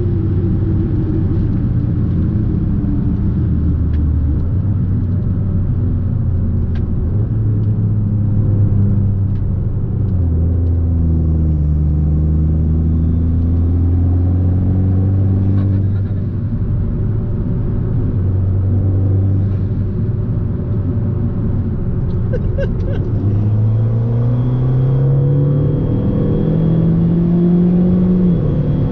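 Fiat 500 Abarth's turbocharged 1.4-litre four-cylinder engine and exhaust driving under load, the engine note rising and falling with throttle and gear changes, with a long steady rise under acceleration near the end.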